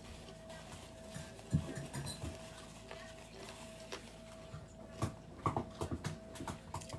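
A person chewing food, with irregular mouth clicks and soft knocks as food is handled at the table; the loudest knock is about a second and a half in, and a cluster comes about five to six seconds in. A faint steady hum sits underneath.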